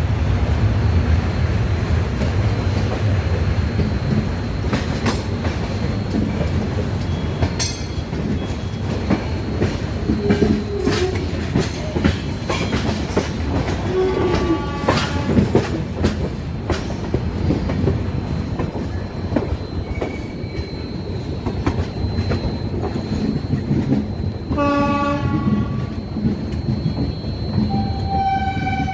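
Passenger train running on the rails: a steady rumble with the wheels clattering over rail joints. A horn sounds briefly twice near the end.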